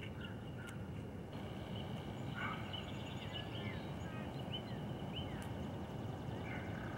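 Small birds chirping in short, quick calls that slide up and down in pitch, over a steady low background rumble.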